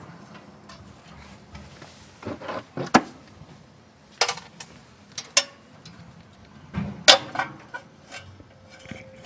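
Hand tools and small metal engine parts clinking and knocking as they are handled and set down during disassembly. Several sharp clacks are spread through, the loudest about 3 and 7 seconds in, with light rattles between them.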